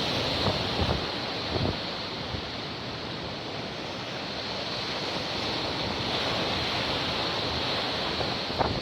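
Stormy sea surf washing in steadily, with strong wind buffeting the microphone and a few brief thumps near the start and just before the end.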